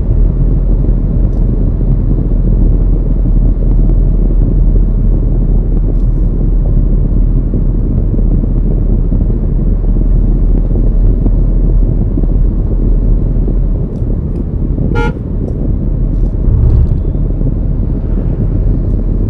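Steady wind and road rumble of a car driving, heavy in the lows. About fifteen seconds in, a vehicle horn gives one short toot.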